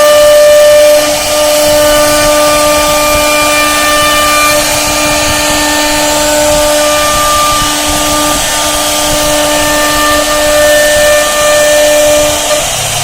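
CNC router spindle running at high speed while its bit carves wood: a loud, steady whine of several tones over a hissing cutting noise. Near the end the whine's lowest tone drops out.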